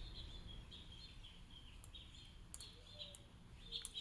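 Faint bird chirping: a run of short, high, repeated chirps, with a few light clicks about two and a half seconds in.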